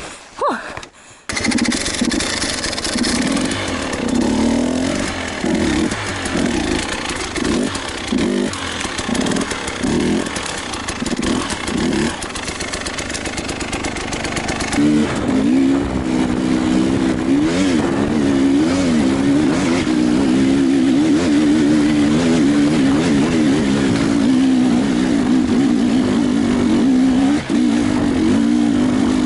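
Enduro motorcycle engine under throttle, coming in suddenly about a second in. For the next ten seconds or so it rises and falls in pitch about once a second as the throttle is worked on and off. After that it runs more steadily, its pitch wavering up and down.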